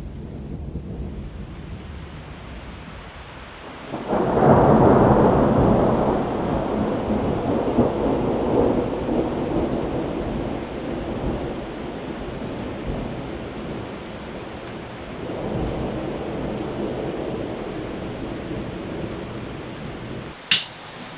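Rolling thunder over steady heavy rain: a low rumble swells suddenly about four seconds in and rolls on for many seconds, slowly fading, with a second swell later. A sharp click near the end.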